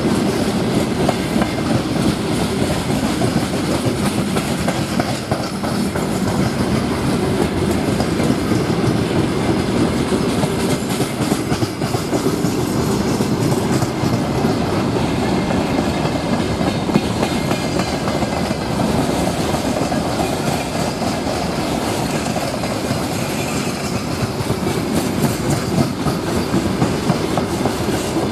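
Freight train wagons rolling past, a steady dense clatter of wheels over the rail joints. The train is a mix of boxcars, container flatcars and open gondola cars.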